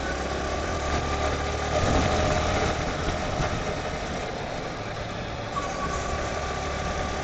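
Yamaha R15's liquid-cooled single-cylinder engine running steadily in sixth gear, with a slight rise in level about two seconds in.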